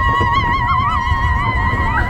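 A long, high-pitched held cry from riders on a roller coaster, wavering slightly in pitch, over the low rumble of the moving ride.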